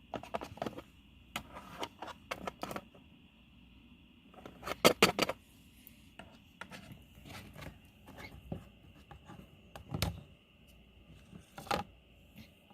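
Small plastic toy figurines and playset pieces clicking and tapping as they are handled and moved about, in irregular clicks with a quick cluster of louder taps about five seconds in.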